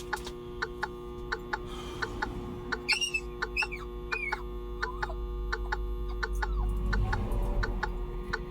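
Microwave oven running on high with a steady hum and a regular tick about three times a second. A few short, high squeaks with bent pitch come around three to four seconds in.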